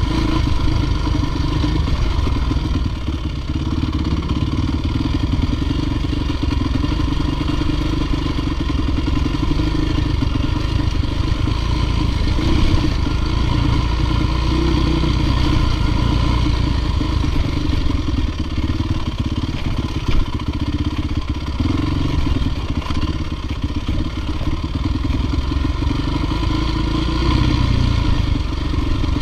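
Dirt bike engine running at steady revs.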